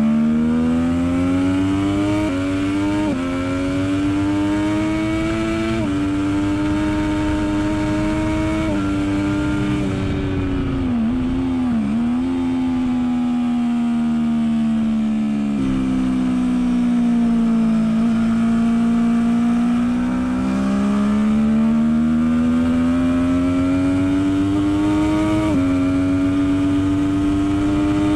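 Triumph Daytona 675R's inline-three engine working hard on track, its note climbing through the gears with several quick gear-change steps. The note wavers and dips briefly about eleven seconds in, runs lower for a few seconds past the middle, then climbs again.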